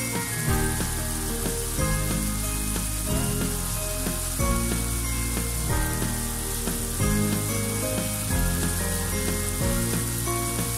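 Beef and spice masala sizzling in a nonstick wok as it is fried down, a steady hiss. Background music with slow held notes and a deep bass plays over it.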